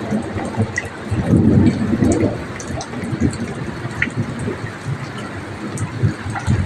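Heavy rain pouring steadily while strong wind gusts, with uneven low rumbling swells, the biggest a little over a second in, and scattered sharp drip ticks.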